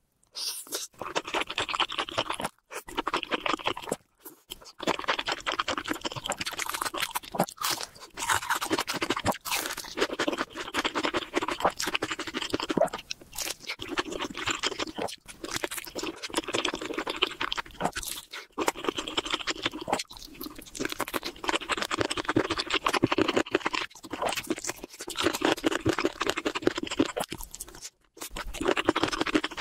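Close-miked eating sounds: crunching and chewing of fried and sauced chicken, with moist mouth clicks. The crackly chewing is continuous, broken by a few brief drops to silence.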